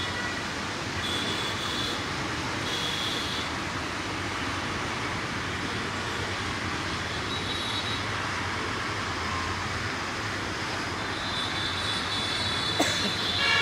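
Metre-gauge passenger train running steadily along the track, a continuous rumble of wheels and coaches, with a few brief high squeals.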